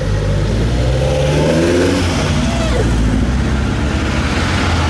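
A car engine accelerating, its pitch rising over the first two seconds, then running on steadily at a strong, low note.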